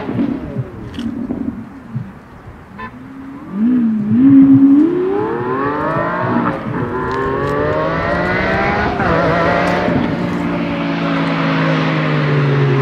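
Lamborghini Aventador's V12 with a Supersprint exhaust: a few quick revs while standing, then a loud launch about four seconds in and hard acceleration with the engine pitch climbing, broken by two quick upshifts. Near the end the engine note holds and eases down as the car comes close.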